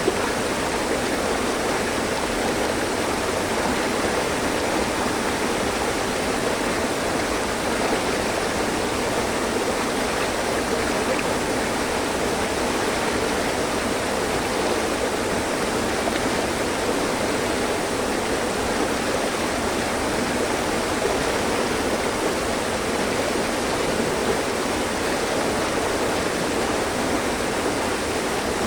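Mountain stream running over rocks: a steady, unbroken rush of flowing water.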